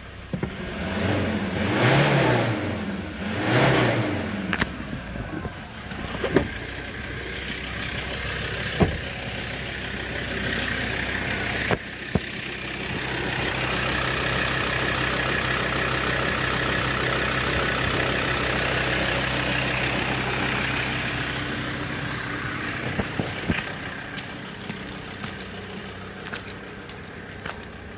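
A 2015 Ford Ranger's 3.2-litre five-cylinder turbodiesel runs and is revved up and back down twice in the first few seconds, then idles. About twelve seconds in it is held at raised revs for roughly ten seconds and then settles back toward idle. A few sharp clicks are heard along the way.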